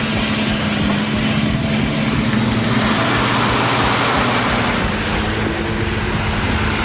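A heavy truck's engine running steadily under loud rushing noise, with a low hum that holds a steady pitch.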